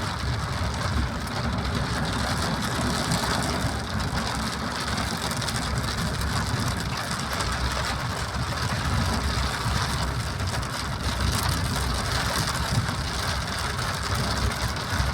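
Steady rain, mixed with the low running noise of a vehicle travelling along the road.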